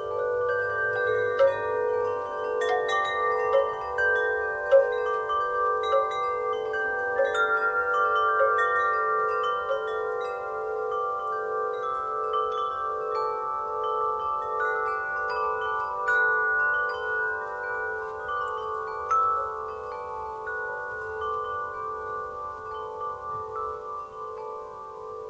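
Wind chimes ringing in a breeze: irregular strikes set off overlapping notes that ring on and pulse. The strikes come thick at first, then thin out and grow softer toward the end.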